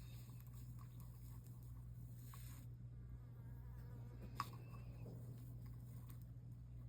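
Quiet steady low electrical hum, with a faint hiss over the first couple of seconds and one sharp click about four and a half seconds in.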